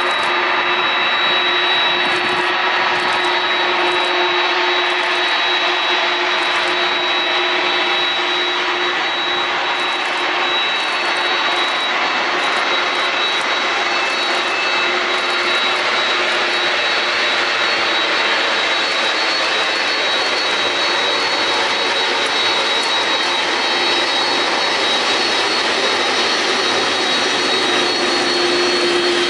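Boeing 767's General Electric CF6-80C2 turbofans running, a steady jet roar with a high, even whine held throughout.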